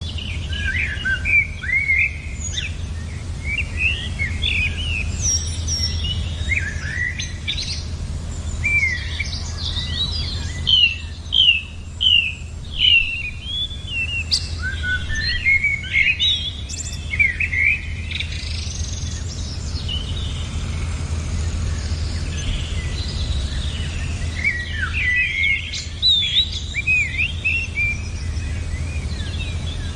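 Small songbirds chirping and singing in quick runs of short, sweeping high notes, busiest in the middle and again near the end, over a steady low hum.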